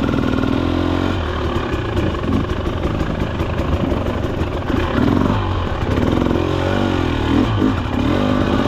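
Husqvarna TE300 TBI's two-stroke single-cylinder engine being ridden, its revs rising and falling several times as the throttle is worked, heard from the rider's position.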